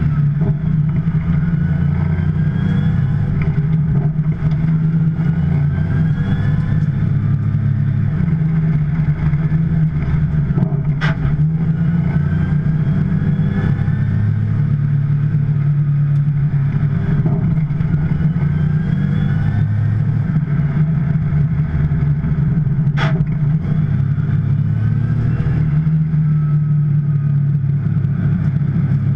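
2010 Porsche 911 Turbo's twin-turbo flat-six running at warm-up-lap pace, with a rising whine repeating every few seconds as it pulls. Two sharp clicks, about twelve seconds apart.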